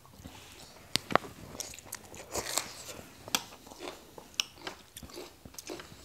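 Close-miked eating: chewing and crunching of raw vegetables and noodle salad, with wet mouth clicks. Two sharp clicks stand out about a second in.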